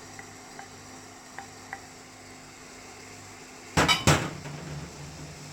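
A spoon knocking against a metal cooking pan three or four times in quick succession about four seconds in, with a few light ticks before it, while spice powder is being added to the curry.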